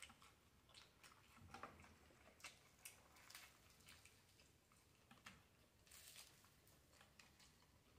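Faint chewing and mouth smacking on fried chicken, with scattered crisp crackles and clicks as a piece of breaded fried chicken is torn apart by hand.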